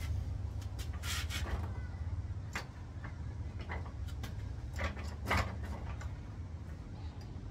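A handful of short clicks and knocks, the loudest about one second in and about five seconds in, over a steady low hum.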